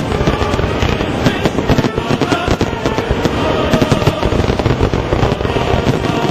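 Aerial fireworks going off in a rapid, continuous barrage of bangs and crackling, with no pause.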